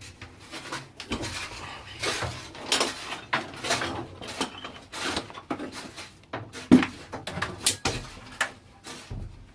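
Irregular knocks, scrapes and rattles of excavated rock rubble and a bucket being handled as spoil is hauled up from the shaft.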